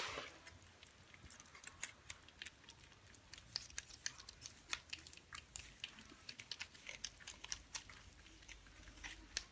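Kittens eating from food bowls: quick, irregular little clicks and smacks of lapping and chewing.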